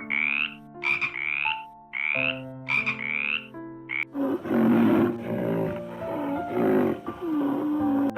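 Animal calls over soft background music: short rising calls about once a second, then from about four seconds in a denser, rougher, louder calling with low bending pitches.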